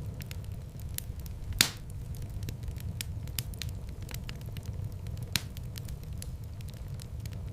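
Wood fire in a fireplace crackling, with scattered sharp snaps over a low steady rumble of the flames. A loud pop comes about a second and a half in and another near the end.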